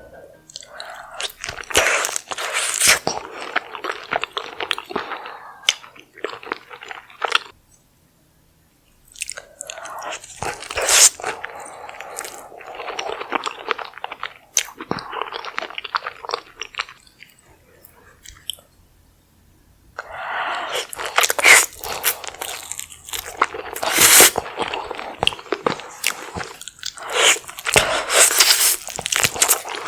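Close-miked eating of a seafood boil: biting, crunching and wet chewing in bursts, with two short pauses.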